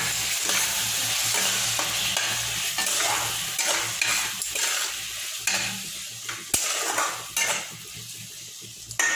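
Masala and fried potato pieces sizzling in hot oil in a kadhai after a splash of water, while a plastic spatula stirs and scrapes the pan in repeated strokes. The sizzle dies down in the second half.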